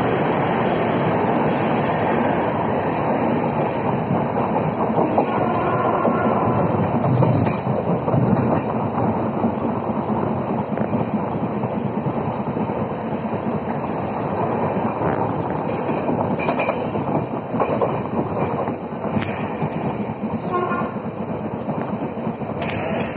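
Passenger train running, heard from an open coach door or window: steady rolling noise of the wheels on the track, with clicks and clatter as the wheels cross rail joints and points, more often in the second half.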